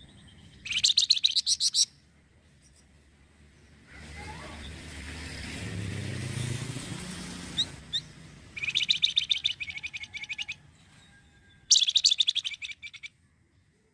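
Flamboyan songbird giving three bursts of rapid-fire chattering song, each a second or two of fast repeated high notes. Between the first and second bursts a rushing noise swells and fades, with two short rising whistles at its end.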